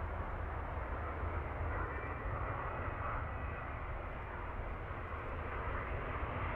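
Airbus A350-900 airliner on its landing approach, its Rolls-Royce Trent XWB jet engines giving a steady rumble with a faint whine.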